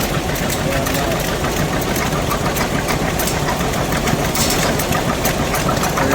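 Tractor engine running steadily, heard close up from the tractor itself.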